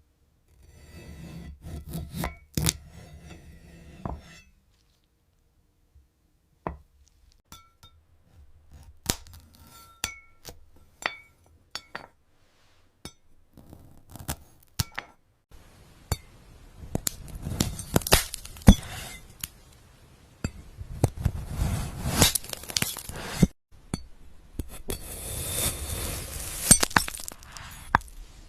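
Hard, glassy clinks and cracks at irregular intervals, some ringing briefly, like brittle glass being tapped and broken. In the second half they thicken into longer stretches of dense crackling and scraping.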